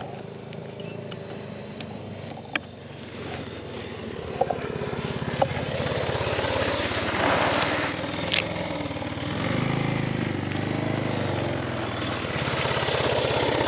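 Suzuki DR650 single-cylinder engine running on the move, growing louder about halfway through, with a few sharp pops scattered through it: the bike is backfiring, which the rider suspects is a fuel problem.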